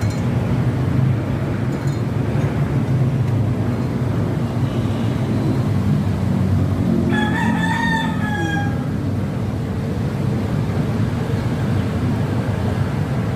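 A rooster crows once, about seven seconds in: a single call of under two seconds that drops in pitch at the end. It is heard over a steady low background rumble.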